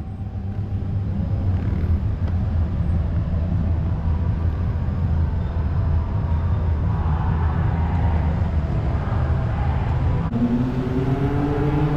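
Heavy city road traffic, a steady dense rumble of engines and tyres. About ten seconds in, a wavering pitched sound with overtones joins it.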